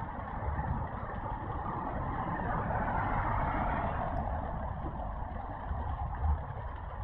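Steady road traffic noise from a dual carriageway, heavy vehicles and cars passing in a continuous rumble that swells slightly midway.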